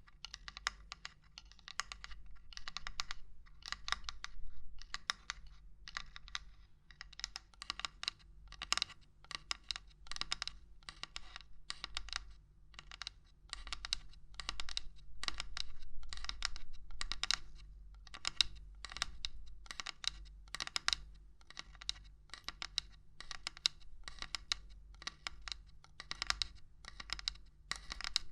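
Rapid, irregular light tapping and knocking on hard objects for ASMR: quick clusters of sharp, bright clicks, two or three bursts a second, without pause.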